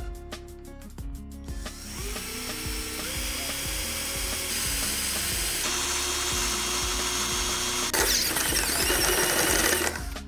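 Electric drill with a stepped drill bit boring a hole through aluminium angle bar. It starts about two seconds in and gets louder and harsher for the last two seconds before stopping, over background music with a steady beat.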